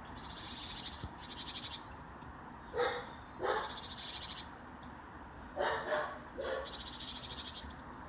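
Garden birds calling: a fast, even, high-pitched rattling trill in three bouts, with five short, harsh lower calls in two pairs and a single, the loudest about three and six seconds in.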